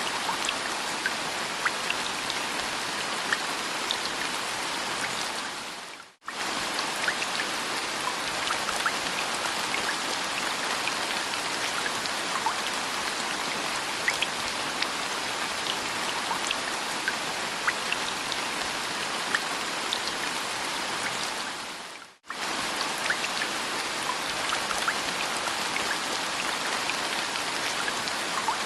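Steady rain with scattered individual drops pattering. The sound fades out and straight back in twice, about six seconds in and again some sixteen seconds later, as a looped rain recording does.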